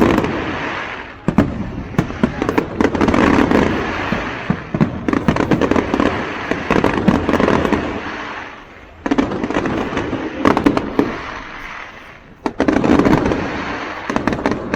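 Aerial fireworks bursting: sharp bangs over dense crackling in swelling waves, with fresh loud volleys starting suddenly about nine seconds and again about twelve and a half seconds in.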